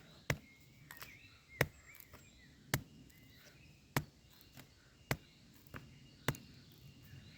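Morakniv Robust knife blade chopped into hard aged beech, six sharp blows a little over a second apart. It is an edge-abuse test: the blade comes through it undamaged. Faint bird chirps lie underneath.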